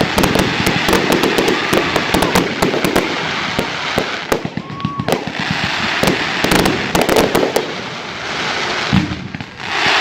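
Fireworks going off: a dense, rapid run of cracks and pops over a crackling hiss, with a short whistle about halfway through. The bangs thin out near the end.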